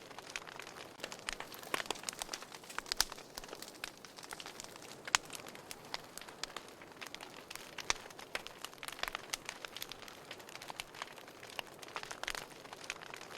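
Wood fire burning in a fireplace: a soft hiss with irregular crackles and sharp pops, a few louder snaps scattered through.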